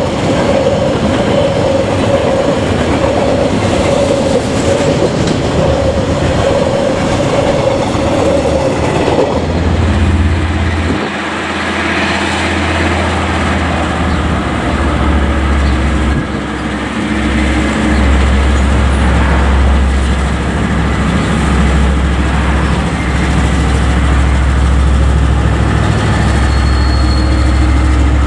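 Freight train wagons rolling past with a steady whine over the clatter of the wheels. About nine seconds in this gives way to a KiwiRail diesel locomotive's engine, a steady low drone, as it hauls a container train past.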